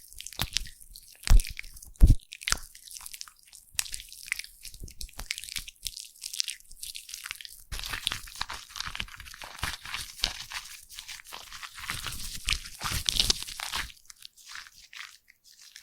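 Foam being squished and worked by hand, with dense crackling and popping of bubbles. There are two louder thumps about a second and two seconds in, and the crackle thickens into a steady fizz over the latter half before thinning out near the end.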